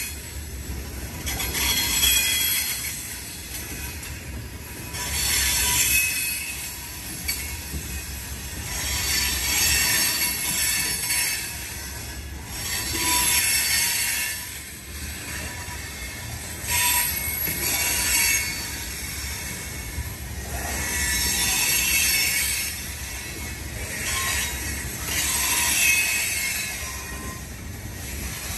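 Freight train tank cars rolling past at close range: a steady low rumble of wheels on rail, with a high, hissing wheel noise that swells and fades every couple of seconds.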